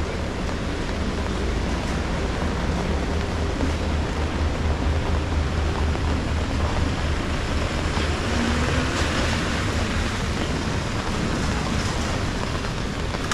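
Steady rain falling, a continuous hiss with a constant low rumble underneath. The hiss swells briefly about two-thirds of the way through.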